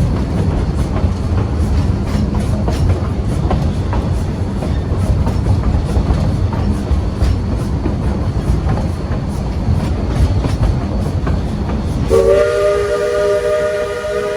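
A narrow-gauge steam train rolling along, heard from aboard as a steady low rumble with scattered wheel clicks. About twelve seconds in, locomotive 40's steam whistle starts blowing a loud, steady chord of several notes at once. It is the signal that the train is arriving at the station.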